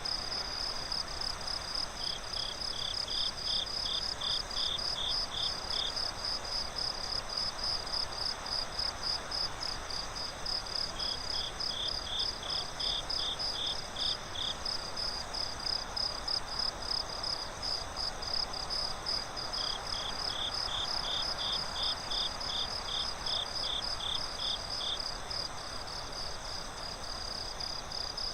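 A chorus of crickets chirping in rapid, even pulses without a break. A second, lower-pitched cricket trills in three runs of a few seconds each. Under them runs a soft hiss of breeze in the leaves.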